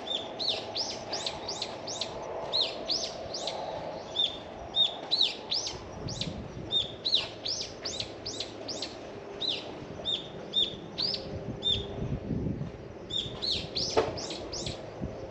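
Small birds chirping in quick, sharp, high notes, many per second, over a faint low background hum. A single sharp click near the end.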